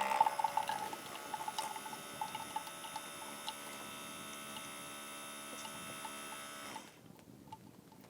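Outin Nano portable espresso machine running its pump to brew a shot: a steady pitched hum with irregular clicks, densest in the first second or two, that stops suddenly about seven seconds in.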